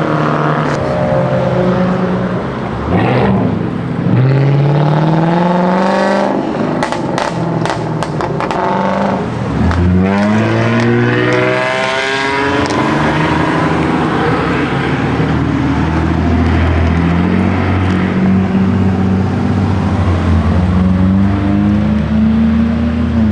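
Several modified car engines running together, revving so their pitch climbs and falls repeatedly, with a run of short sharp pops about seven to nine seconds in.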